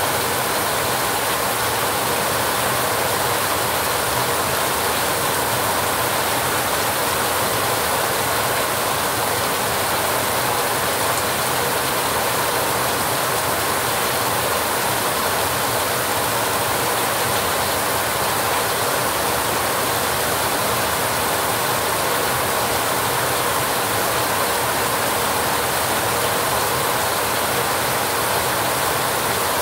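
Heavy rain falling steadily on a rusty metal roof, a dense even patter with no letup and no thunderclap.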